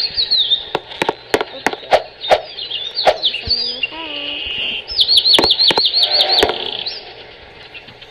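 Birds chirping: repeated high chirps that fall in pitch, with a quick run of about eight chirps between five and six and a half seconds in. Sharp clicks are scattered among them.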